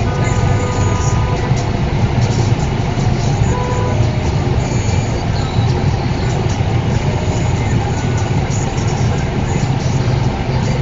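Steady low rumble of car road and engine noise heard inside the cabin through a windscreen dash cam.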